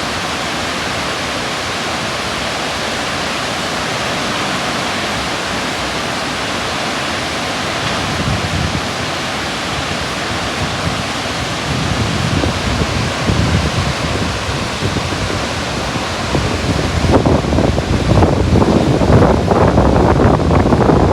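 Burney Falls, a 129-foot waterfall, rushing as a steady, loud roar of falling water. From about 17 seconds in, gusts of wind buffet the microphone over it.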